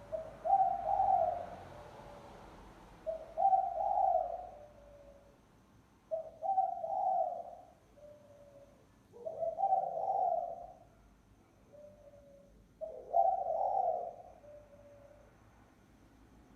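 Spotted dove cooing, the kind of call used as a lure for doves. Five phrases come about three seconds apart, each a louder rolling coo followed by a softer trailing note.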